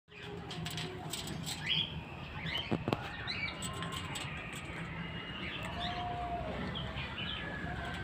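Birds chirping: short scattered calls, some sliding up or down in pitch, over a steady low hum, with two sharp knocks about three seconds in.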